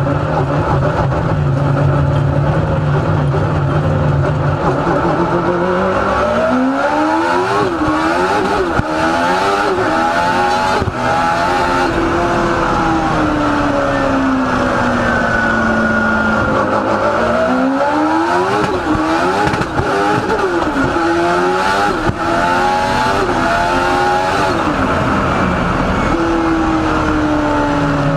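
A car engine revving hard: it holds a steady note for a few seconds, then pulls up through the gears, its pitch climbing and dropping back in quick steps at each shift. It winds down slowly, then pulls hard through the gears again.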